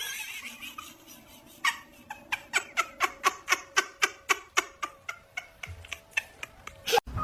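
A cat making a quick, regular run of short sharp sounds, about four a second, lasting some five seconds and then stopping.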